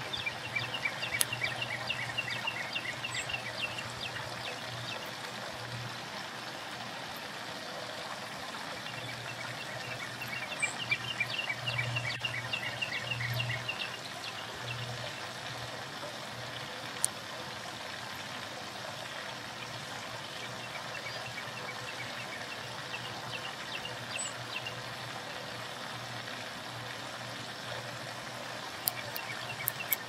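A songbird singing bouts of quickly repeated high whistled notes, four times, over a steady rushing background noise.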